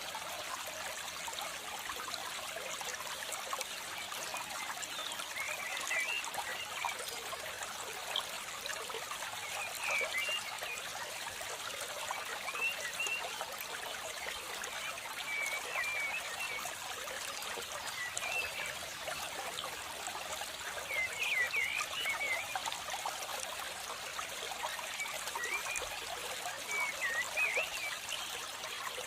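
Steady trickle of running water, like a small stream, with short high chirps every few seconds, in a cluster about two-thirds of the way in.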